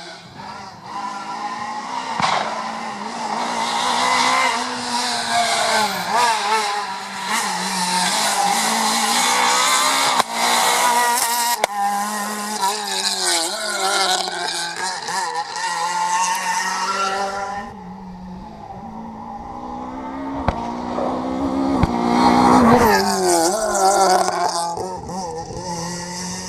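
Rally car engines at full throttle, revving up and dropping back again and again through gear changes, with tyre squeal. About two-thirds of the way through the sound falls away, then another car's engine builds up and passes.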